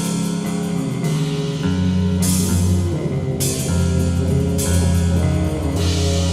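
Slowed-down, reverb-heavy rock music: held guitar chords over bass and drums, with cymbal crashes washing in roughly every second.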